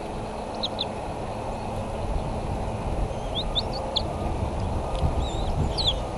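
Short high-pitched bird chirps in small groups (a pair, then a cluster, then another near the end) over a steady low rushing background noise.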